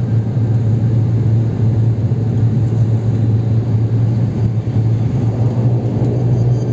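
Turboprop airliner cabin noise: a steady low propeller drone over a constant engine and airflow rumble.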